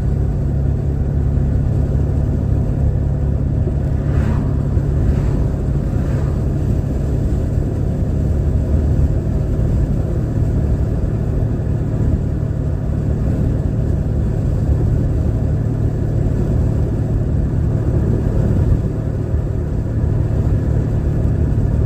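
A car's engine running, heard from inside the cabin as a steady low drone. It is the noise that the owner apologises for, putting it down to her car being worn out.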